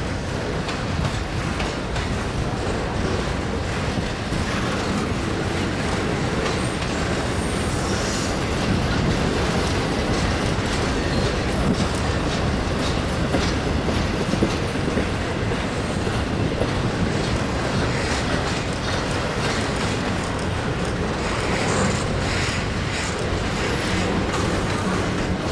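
Freight cars of a long train rolling past at steady speed: a continuous rumble of wheels on rail with running clicks from the wheels crossing rail joints.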